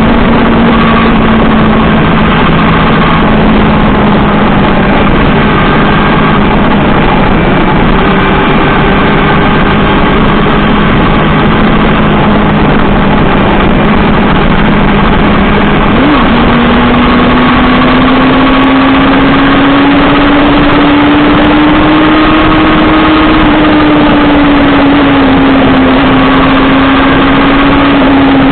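Honda CBR400RR inline-four motorcycle engine running at a steady cruise, buried in loud wind rushing over the microphone. The engine note jumps briefly about halfway through, then climbs slowly and eases off near the end.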